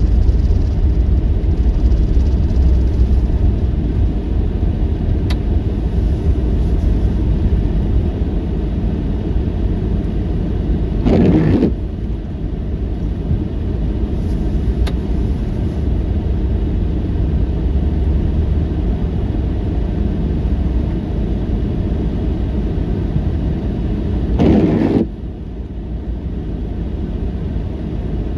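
Steady low rumble, with two brief rushing surges: one about eleven seconds in and one near the end.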